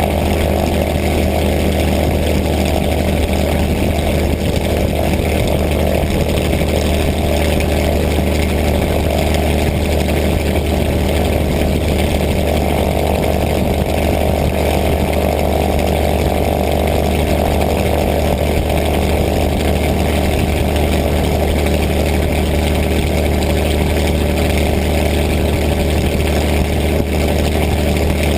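P-51 Mustang's V-12 piston engine running steadily at low power, its pitch easing down slightly in the first seconds.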